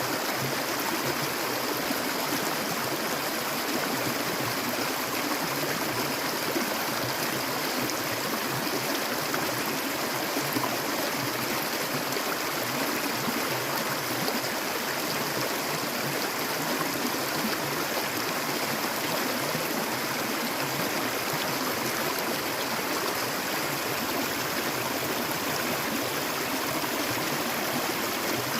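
Water flowing steadily, an even, unbroken rush.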